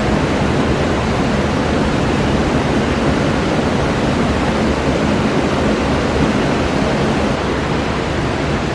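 Waterfall roaring: water plunging over the falls in a loud, steady rush.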